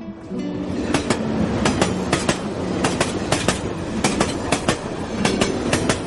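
Railway carriage wheels clattering over rail joints: a steady rumble with sharp clacks that come in quick pairs, a pair every half second to a second.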